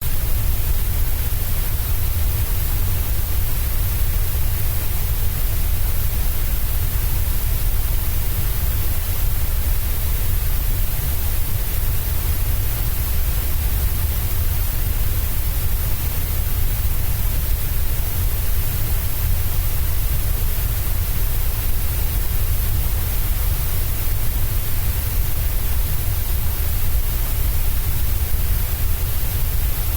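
Steady white noise of the kind used to lull babies to sleep: an even, unchanging hiss with a strong low rumble underneath.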